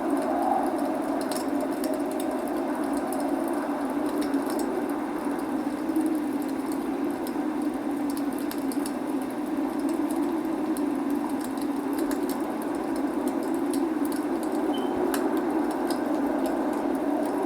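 Log fire burning in a fireplace, with scattered small crackles and pops over a steady rushing noise of rain.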